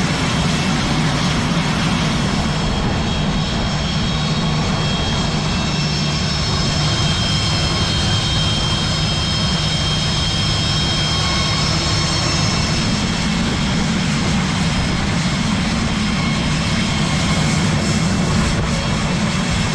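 Jet aircraft turbine running steadily at an airport apron, a continuous high whine over a low rumble.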